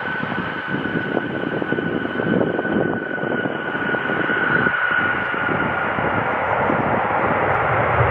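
Airbus A330-300 freighter's jet engines during landing: a rushing roar with a steady high whine that fades over the first several seconds, while the rushing grows gradually louder.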